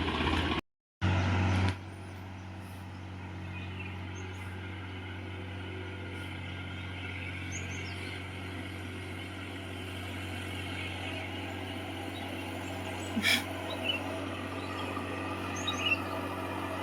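Massey Ferguson 7250 DI tractor's diesel engine running steadily while pulling a heavily loaded trolley of about 80 quintals. The sound cuts out for a moment about a second in, and there is a single sharp click about 13 seconds in.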